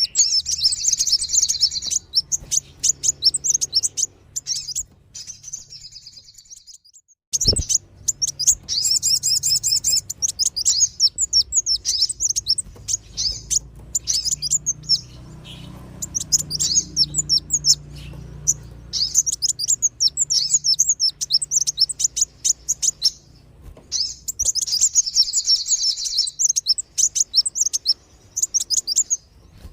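Sunbirds (kolibri wulung and sogon) calling in fast, high, twittering chirps and trills, in repeated bouts, looped as a lure recording for attracting wild birds. About a quarter of the way in, the calls drop out briefly and resume after a sharp click.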